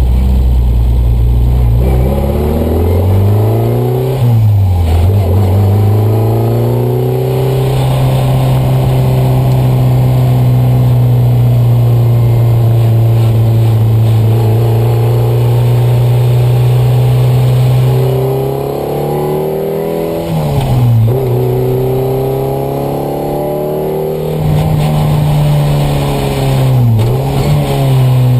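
Alpine A310's 1800 cc engine at full throttle, heard from inside the cabin: revs climb through the gears with short dips at gear changes about 5, 21 and 27 seconds in, and a long stretch held at high revs in between.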